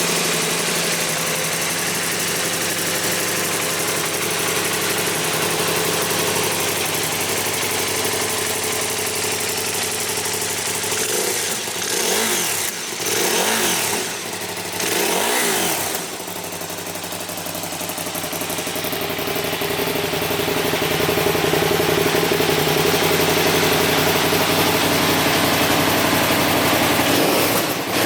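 KTM Super Duke 990's 999 cc V-twin engine idling steadily. About twelve seconds in the throttle is blipped three times, each rev rising and falling. The engine then settles and runs a little louder in the last third.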